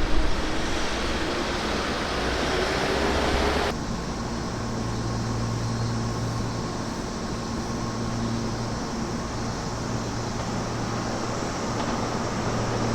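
Electric commuter train running: a steady rumble and hiss with a faint whine. About four seconds in it changes abruptly to a quieter, duller steady hum.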